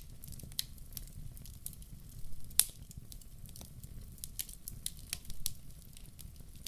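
Wood fire burning in a fireplace: irregular sharp crackles and pops from the logs over a low steady rumble of the flames, with one loud snap about two and a half seconds in.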